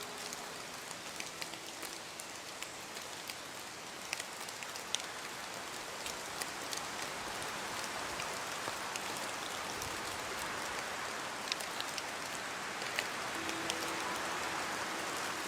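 Steady rain with individual drops ticking sharply against a surface over the constant hiss. It grows a little louder about halfway through.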